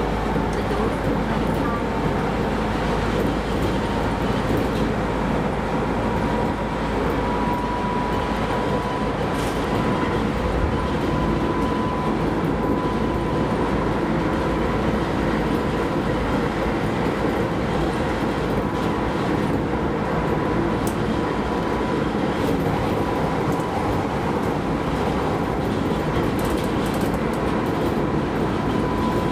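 Keisei Line rapid train running, heard from inside the car: a steady rumble of wheels and running gear with a thin steady whine.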